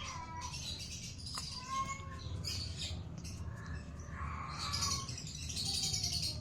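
Green-cheeked conure giving a series of short chirps and squawks while it is hand-fed formula.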